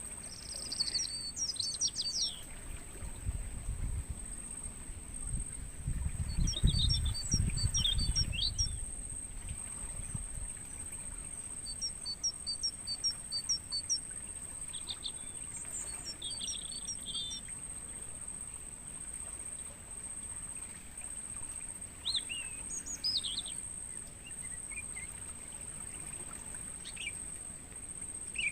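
Crickets trilling in a steady, unbroken high-pitched drone, with wild songbirds calling over it in scattered chirps and runs of short repeated notes. A low rumble rises between about 3 and 9 seconds in.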